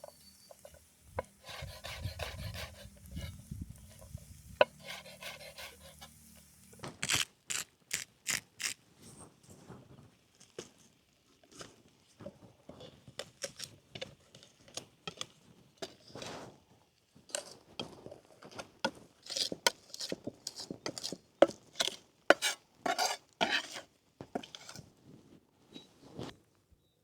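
Utensils scraping and clinking against a dish, first a softer rubbing stir, then from about seven seconds in a long irregular run of sharp clicks and taps.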